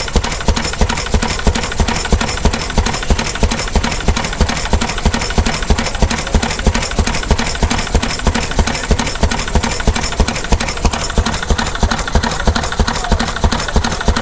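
Vintage stationary engine running steadily, with an even beat of about four firing strokes a second.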